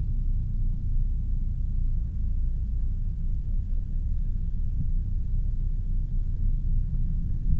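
Steady low rumble of riding an e-bike: wind buffeting the microphone along with tyre and road noise.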